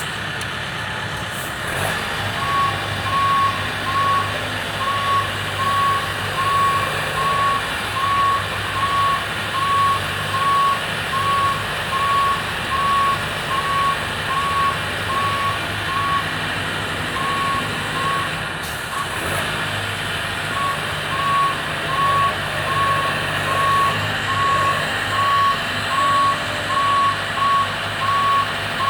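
Boom lift's motion alarm beeping at an even pace, a little over one beep a second, over the steady hum of the lift's running engine as it is driven. The beeping starts a couple of seconds in and drops out briefly in the middle.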